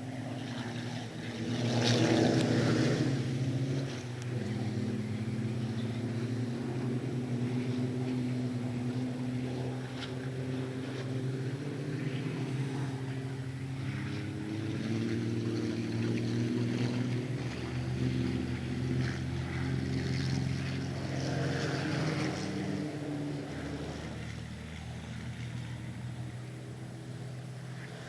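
Racing trucks' diesel engines running on the circuit, one passing close and loud about two seconds in, a fainter pass later on, with engine drone steady in between.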